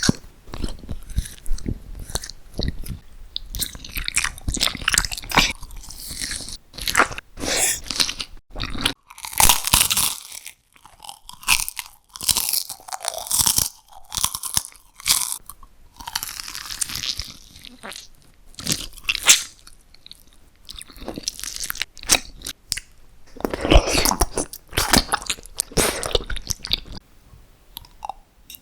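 Close-miked eating: crisp crunching bites and chewing, coming in clusters of sharp crunches with short pauses between them.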